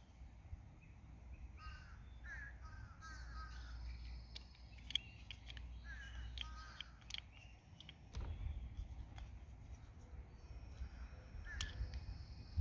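Faint bird calls, a series of short repeated calls with a low rumble of wind or background noise underneath, and a few sharp clicks.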